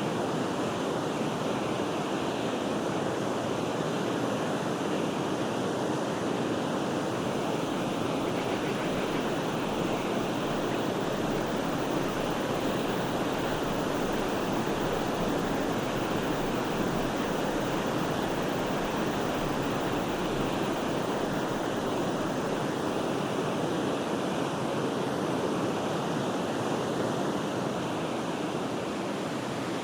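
Forest river flowing: a steady, even rush of running water with no breaks or changes.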